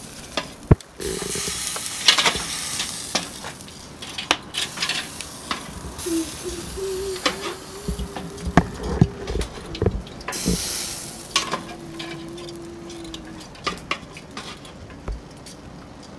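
Pork ribs sizzling in a pot of hot fat as they are scooped out, the sizzle swelling loud twice, with metal tongs clicking and clinking against the pot and strainer ladle.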